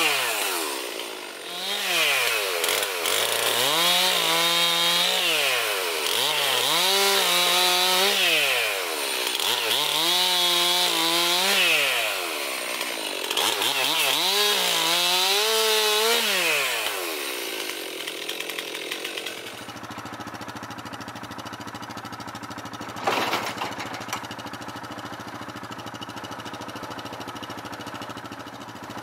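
Stihl MS 362 C two-stroke chainsaw cutting wood, revving up to full throttle, holding and dropping back about five times. About 19 s in it settles to a steady idle, with a single sharp knock a few seconds later.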